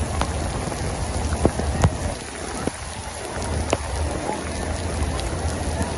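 Rain falling steadily, with individual drops hitting sharply close by now and then over a low rumble.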